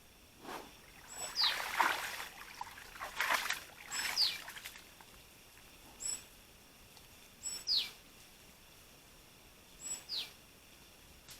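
A bird calls again and again, every two to three seconds: a short high note, then a whistle sliding downward. In the first half there are several louder bursts of rough noise.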